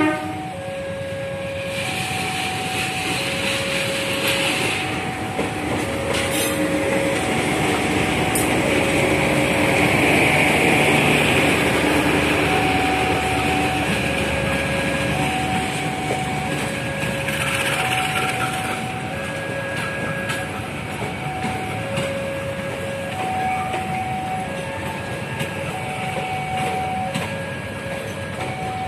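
Diesel-hauled passenger train rolling slowly past, its wheels and coaches running over the track at crawling speed under a speed restriction for rail and sleeper replacement. Throughout, a level crossing warning signal sounds, alternating between two tones about once a second.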